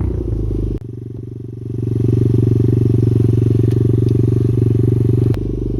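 Pit bike engine running at a steady speed under way. There are abrupt changes in the sound about a second in and again near the end, and the engine note is steady and loudest in between.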